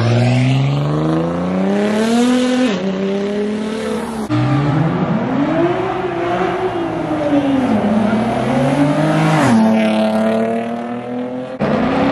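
Car engines under hard acceleration. The pitch climbs steeply, drops at an upshift about two and a half seconds in, and climbs again. After an abrupt change about four seconds in, an engine rises and falls in pitch in long sweeps, and another abrupt change comes near the end.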